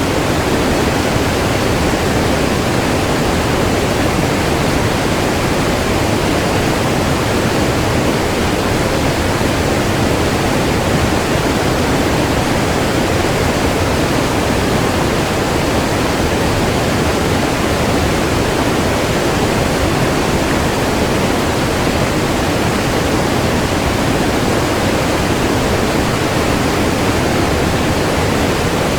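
Fast, rapids-strewn river water rushing steadily and loudly, a dense even rush of noise weighted toward the low-middle range with no breaks.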